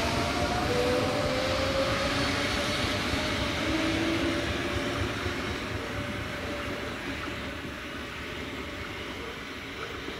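A train running past and moving away: a broad rumble that fades steadily, with a few whining tones that rise slowly in pitch and die out about halfway through.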